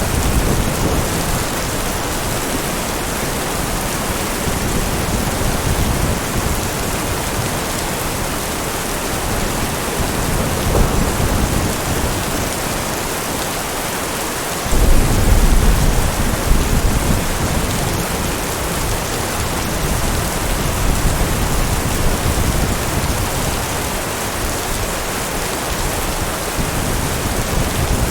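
Heavy rain falling steadily, with low rolls of thunder. A sudden loud clap of thunder comes about halfway through and rumbles on for a few seconds.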